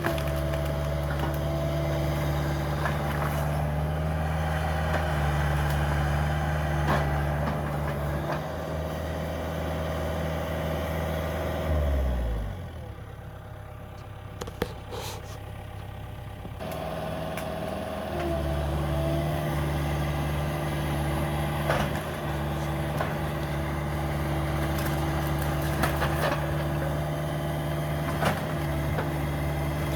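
Cat 305 mini excavator's diesel engine running steadily. About twelve seconds in its pitch falls and it drops to a low idle, then it picks back up about five seconds later. Scattered knocks and cracks from demolition debris are heard over it.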